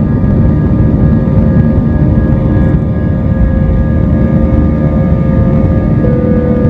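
Airbus A320-232's IAE V2500 turbofan engines running at high thrust, heard from inside the passenger cabin: a loud, steady rumble with a few steady whining tones above it.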